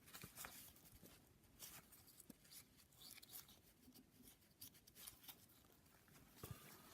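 Near silence with faint light clicks and rubbing: a connecting-rod bearing shell being pressed by hand into its seat.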